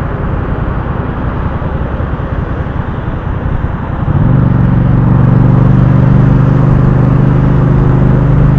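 Motorcycle on the move, with a rough rumbling noise of the ride. About four seconds in, a louder, steady engine hum sets in and holds.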